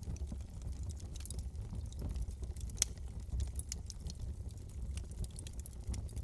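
Wood fire burning in a fireplace: scattered crackles and pops over a low steady rumble, with one sharper pop about three seconds in.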